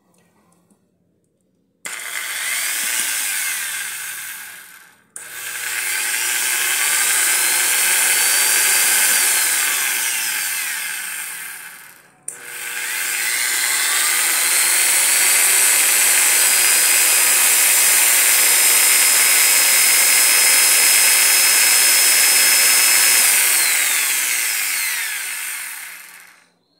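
Wesco electric polisher's motor switched on three times with short breaks, each time spinning up with a rising whine, holding a steady high whine through the long last run and winding down near the end. It runs smoothly after its worn rear bearing was replaced: the bearing was the cause of the earlier noise.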